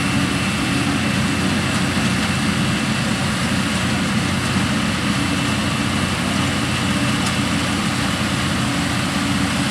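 John Deere 7R tractor engine running steadily under load while pulling a Grimme EVO 290 potato harvester, with the harvester's mechanism clattering and whirring over the engine drone.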